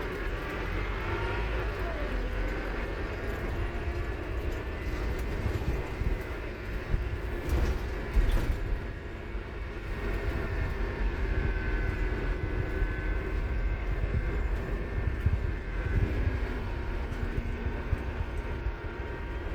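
Scania K230UB Omnilink bus under way: a steady engine rumble with the whine of its ZF Ecomat automatic gearbox rising and falling in pitch. The gearbox whine is loud. A couple of short knocks come about eight seconds in.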